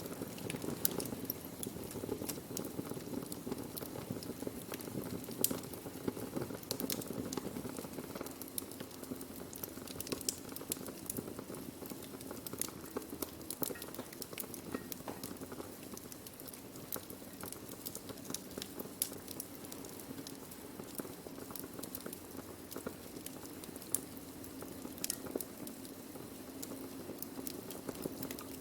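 Wood fire burning steadily, with a dense crackle and many sharp pops and snaps of burning logs scattered throughout.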